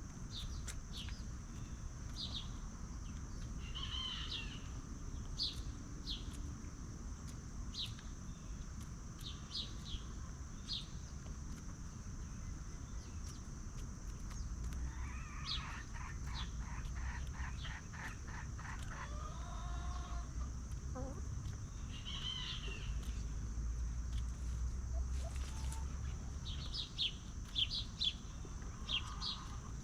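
Free-range chickens clucking, with a rapid run of calls about halfway through and many short, high chirps throughout. A steady high hiss runs underneath.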